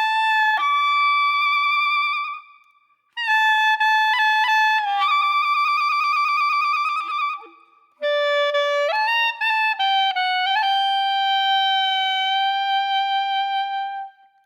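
A single wind instrument playing a slow melody of long held notes in three phrases, with short pauses between them and a few sudden jumps in pitch.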